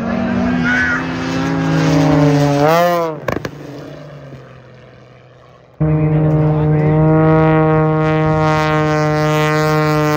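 Piston-engined propeller aircraft flying past, its engine note swinging and then dropping in pitch as it goes by and fading about three seconds in. After a sudden cut, a steady engine drone holds at one pitch.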